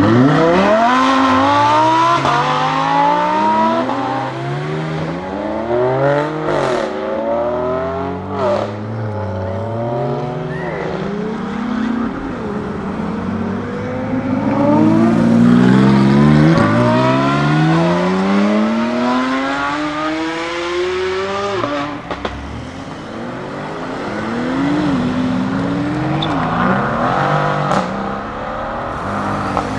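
Lamborghini Huracán STO's naturally aspirated V10 on track, its revs climbing and falling again and again as it accelerates, shifts and slows. The longest climb ends with a sudden drop about two-thirds of the way through.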